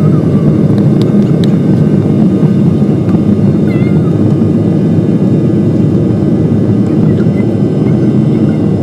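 Passenger airliner heard from inside the cabin: the engines and rushing air make a loud, steady low rumble.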